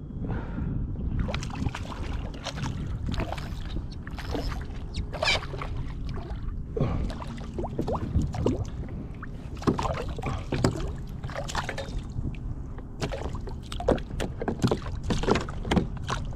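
Water splashing and lapping around a kayak, with a steady low rumble and many short, irregular splashes and knocks.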